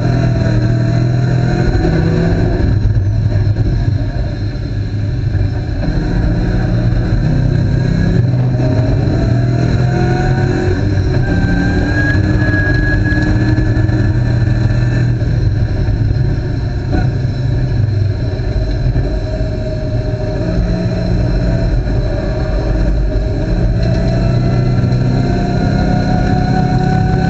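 Ford Mustang race car's V8 running hard, heard from inside the cabin at roughly 4,000 to 5,000 rpm. Its pitch climbs in long rises, with brief drops a few seconds in and about halfway through as the driver lifts.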